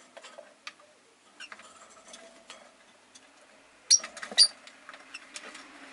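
Rosy-faced lovebirds in their cage: scattered small clicks and taps, then two sharp, loud high chirps about four seconds in.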